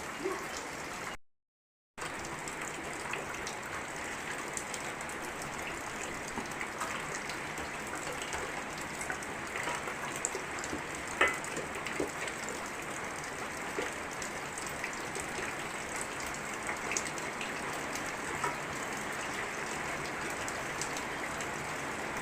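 Steady rain falling, with many individual drops tapping close by; one sharp tap about eleven seconds in stands out. The sound drops out completely for under a second near the start.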